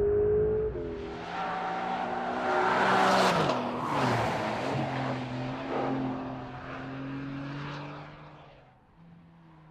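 Porsche 911 Carrera GTS flat-six engine as the car drives past. The sound is loudest about three seconds in, with the engine note falling as it passes, then a steady lower note fades away near the end.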